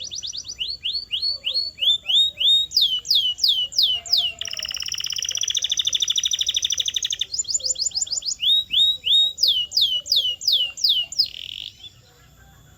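Canary singing: a run of quick downward-sweeping whistled notes, then a long buzzy rolling trill in the middle, then more sweeping notes. The song ends with a short harsh note about a second before the end.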